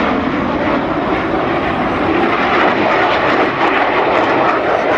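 Lockheed F-117 Nighthawk stealth fighter flying past, its twin jet engines making a loud, steady rushing noise that grows a little louder about halfway through.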